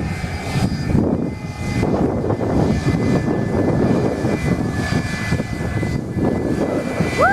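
Airplane engines running at takeoff power: a loud, steady rumble with a faint high whine.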